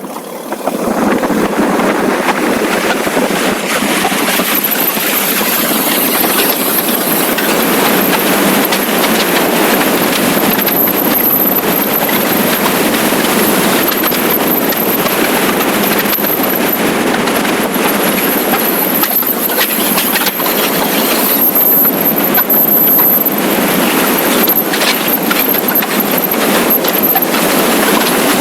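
Steady rush of wind and road noise while riding a motorcycle at speed, jumping up about half a second in and then holding, with a thin high whine above it.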